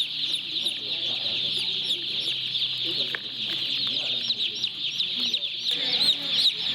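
A flock of young chicks peeping continuously: a dense chorus of many high, short chirps overlapping one another.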